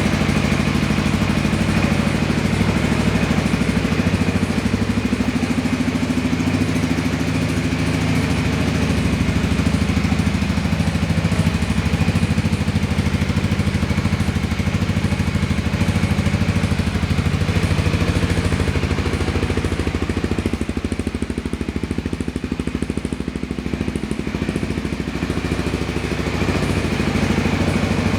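Suzuki Skywave 250 Type M scooter's fuel-injected single-cylinder four-stroke engine idling steadily through an aftermarket custom muffler. It drops a little quieter for several seconds about twenty seconds in.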